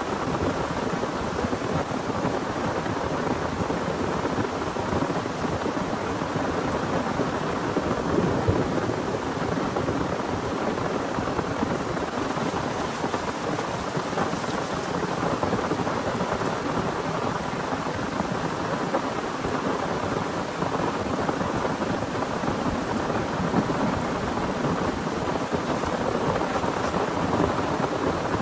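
Heavy rain falling steadily, a dense continuous hiss of drops with no let-up.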